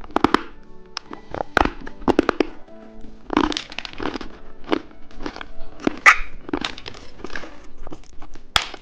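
Close-up eating sounds of candy being chewed, with irregular crunches, clicks and plastic wrapper crinkling, over soft background music.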